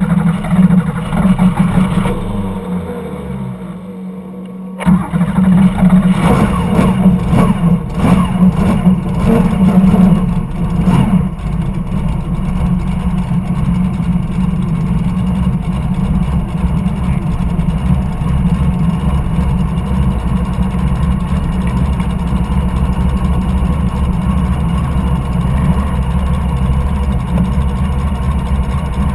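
Boat engine running loud. It drops off with a falling pitch about two seconds in and comes back up about five seconds in, with several seconds of uneven thuds. It then settles into a steady run.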